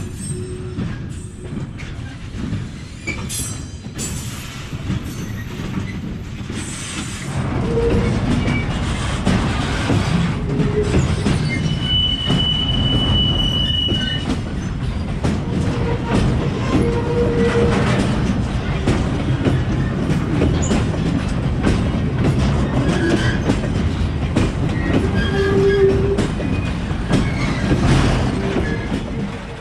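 Freight wagons rolling past on the rails: a continuous low rumble with metallic clanks and short wheel squeals, growing louder about seven seconds in. A steady high-pitched wheel squeal holds for about two seconds around twelve seconds in.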